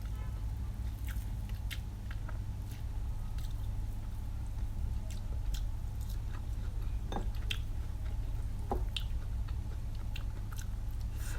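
Close-up chewing and biting of food, with scattered small moist clicks and occasional crunches over a steady low hum.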